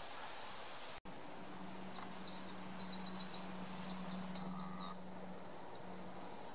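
A small songbird chirping a quick run of short, high notes for about three seconds, over steady outdoor background noise with a low steady hum.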